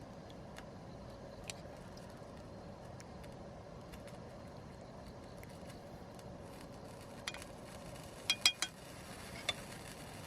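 Cookware and utensils clinking: three light metallic clinks close together about eight seconds in and one more a second later, over a steady low hiss with scattered small ticks.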